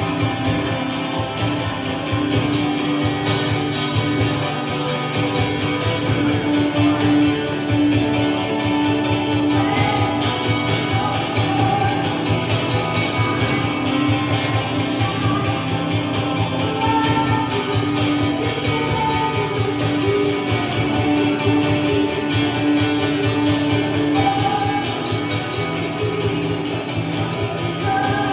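Worship music with guitar and voices singing, at a steady beat.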